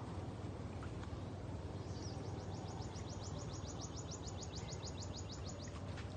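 A bird's fast trill of high, down-slurred notes, about ten a second, lasting about three seconds in the middle, over a steady low background rumble.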